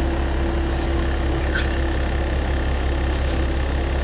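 Diesel railcar engine running with a steady low hum, heard from inside the single-car train. A faint steady tone fades out about two-thirds of the way through, and a few faint ticks sound over it.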